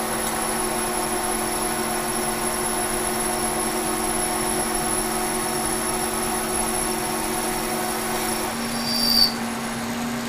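Kearney & Trecker 2HL milling machine running steadily with a gear whine. About eight and a half seconds in, the drive note changes, and a brief high squeal follows.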